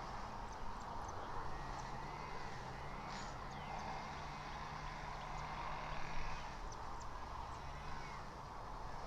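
Steady outdoor background noise with a low hum, like distant traffic, and faint short high chirps or ticks scattered through it.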